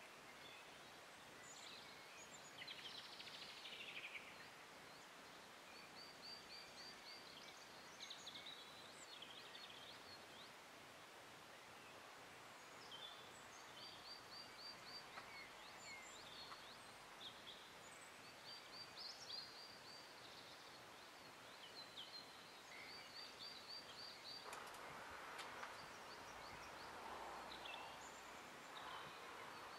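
Faint small-bird song: a short, rapid trill repeated every few seconds, with scattered high chirps, over quiet outdoor background.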